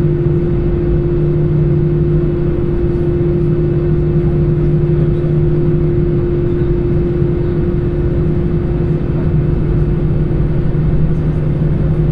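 Airbus A320 engines heard from inside the passenger cabin: a steady low rumble with two constant hums, holding an even pitch throughout.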